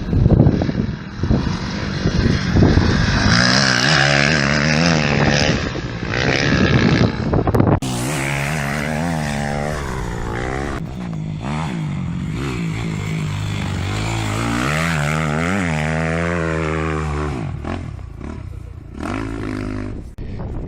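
Kawasaki KX250F motocross bike's four-stroke single-cylinder engine revving hard, its pitch rising and falling again and again as the throttle is worked, with an abrupt cut to a new stretch of engine sound about eight seconds in.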